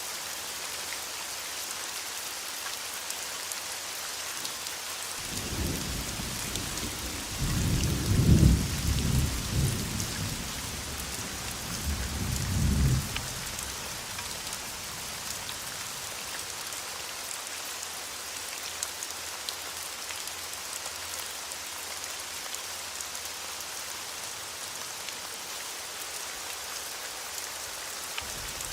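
Steady rain hissing on surfaces, with a roll of thunder rumbling in about five seconds in, peaking twice and fading out by about halfway.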